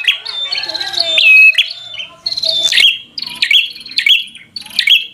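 Prenjak (prinia) giving loud, sharp, high chirping calls in quick succession, about two a second in the second half. This is the aggressive 'fighter' calling used to provoke other prenjak into answering.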